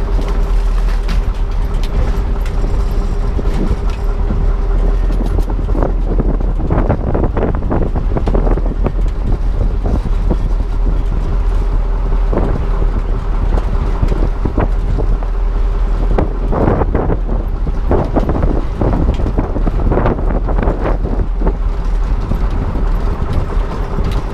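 Truck engine running as it drives a short way, with a steady low rumble and a steady hum. Irregular rattles and clunks come through the middle stretch.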